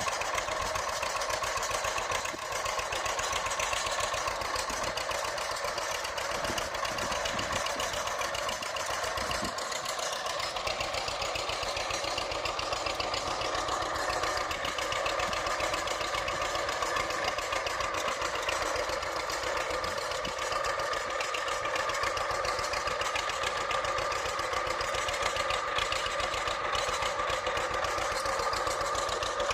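Engine running steadily with a rapid, even firing rhythm.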